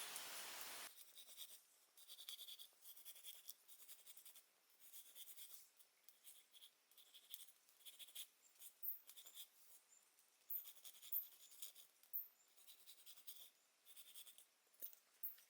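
A steady hiss cuts off about a second in, leaving faint, irregular scratching with light clicks.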